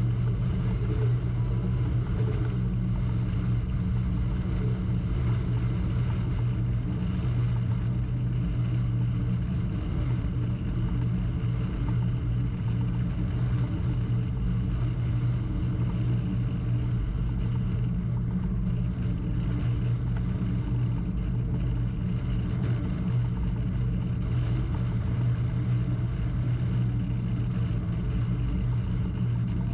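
Crew-transfer launch's inboard engine running steadily, a continuous low drone heard from on board.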